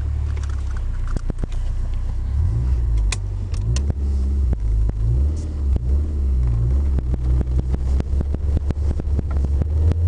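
Lancia Delta's engine heard from inside the cabin while driving: a low drone whose pitch rises and falls several times in the middle, with frequent short clicks and knocks throughout.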